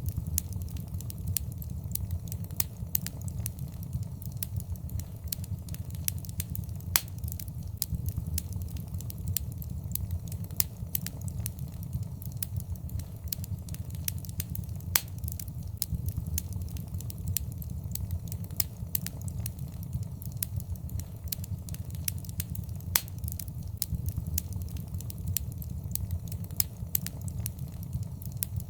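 Wood fire in a fireplace burning with continuous crackling: many small sharp snaps and a few louder pops over a steady low rumble of the flames.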